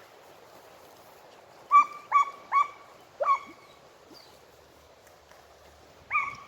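Scent hound (segugio) giving tongue on a hare's trail. There are four short, high yelps in quick succession about two seconds in, then two more near the end.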